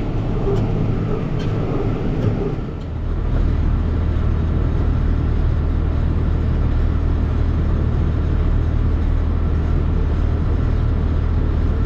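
Tractor running with a small square baler behind it. For the first couple of seconds the baler works with a busy mechanical clatter, then after a short dip the tractor's engine settles into a steady low drone as the outfit stops.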